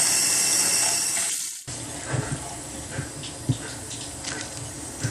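Water running hard from a bathroom sink faucet, cutting off abruptly about a second and a half in. After that come a few faint knocks of handling.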